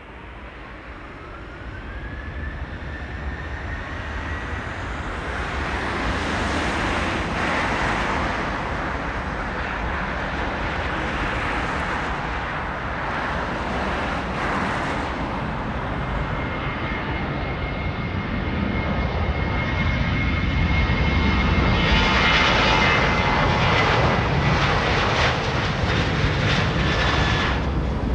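Jet airliner engines: a whine climbs in pitch over the first two seconds as the engines spool up, then the engine noise grows steadily louder, with a high steady whine over it in the second half.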